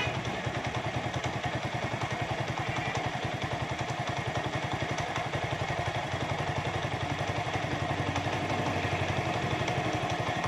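Motorcycle engine idling with an even, rapid exhaust beat while the carburetor's air-fuel mixture screw is adjusted for a smooth idle. The idle has a slight vibration in it, so the screw is being backed out a little.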